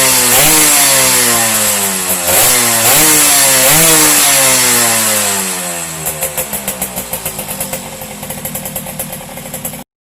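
Two-stroke Yamaha F1Z R motorcycle engine being revved with repeated throttle blips, each rising quickly and falling away slowly, then settling to an uneven, pulsing idle about six seconds in. The sound cuts off suddenly near the end.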